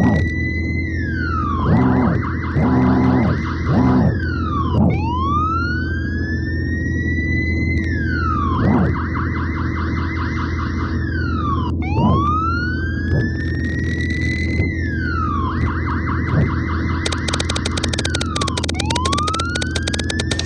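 Electronic toy siren cycling: a tone sweeps up, drops, then warbles rapidly before sweeping up again, repeating about every seven seconds over a steady low electronic hum. A burst of fast crackling comes in near the end.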